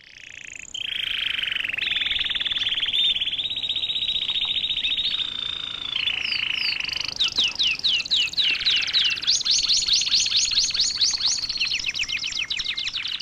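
Canary singing a long song of rapid trills, phrase after phrase, with runs of quickly repeated downward-sweeping notes in the second half.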